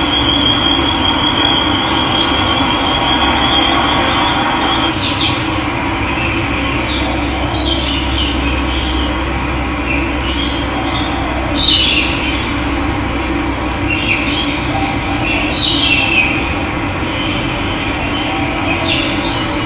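Steady rush of running water with birds calling over it: a high, even trill for the first few seconds, then scattered short chirps, the loudest about twelve and sixteen seconds in.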